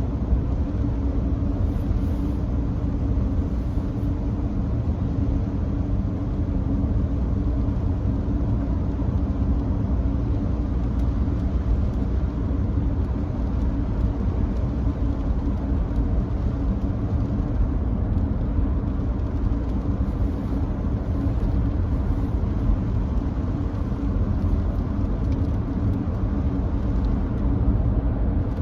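Nissan Note e-POWER driving at a steady speed on a wet expressway: a steady low rumble of road and tyre noise with a constant hiss from the wet surface.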